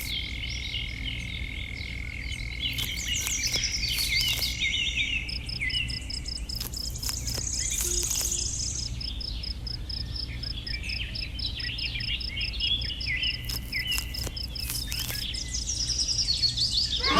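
Birds chirping and calling, many short chirps throughout, with a high insect trill that pulses evenly from about a third of the way in. A low steady rumble runs underneath.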